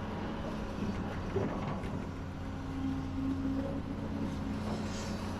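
Heavy construction machinery engine running steadily. A steady whine joins in for about two seconds midway, and there are a few light knocks.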